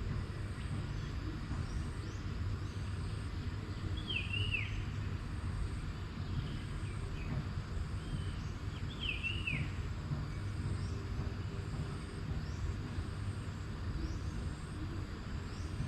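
Outdoor ambience: a steady low rumble with a bird calling over it, two short descending zigzag phrases about four and nine seconds in, plus a few fainter chirps.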